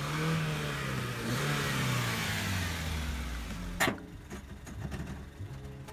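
A Honda Civic sedan's four-cylinder engine pulling away, its pitch falling, rising and falling again over road noise as it drives across the lot. A sharp click a little before four seconds in cuts it off, leaving quieter small clicks.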